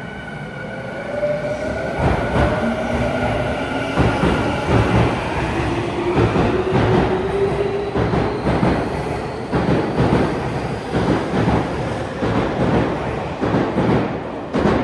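Electric commuter train pulling out of an underground platform: its traction motors whine upward in pitch as it accelerates, and from about halfway through the wheels clatter rapidly over rail joints as the cars go by.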